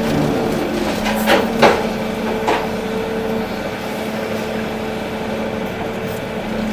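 Volvo EC380D excavator's diesel engine running steadily, with three sharp knocks a second or two in, typical of the bucket or material striking metal.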